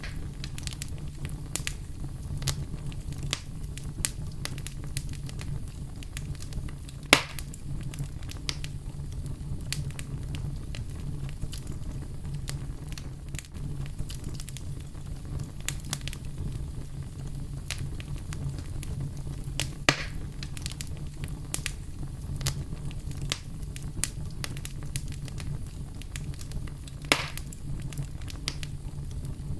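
Wood fire crackling steadily over a low rumble, with frequent small snaps and three louder pops, one about seven seconds in, one about twenty, and one near the end.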